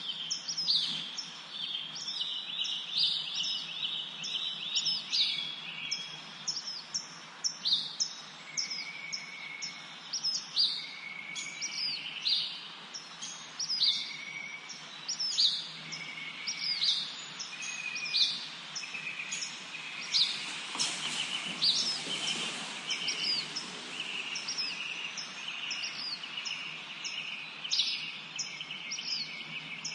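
Several songbirds singing together in a spring forest: many quick high chirps overlapping, a running trill beneath them, and a short whistled note repeated every second or two. About twenty seconds in, a brief rush of noise swells and fades under the birdsong.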